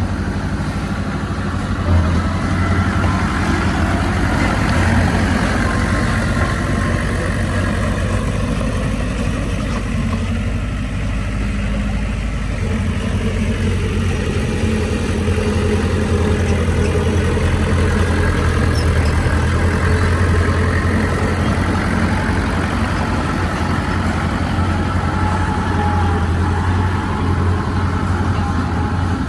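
Heavy diesel engine of earthmoving machinery (a bulldozer or dump truck) running steadily, with a strong low hum that varies only a little in level.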